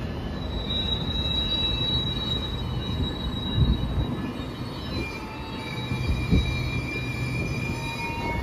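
GO Transit bilevel commuter train moving slowly along the platform: a steady low rumble with thin, high, drawn-out squeals from the wheels, and two heavy thumps, one about three and a half seconds in and one about six seconds in.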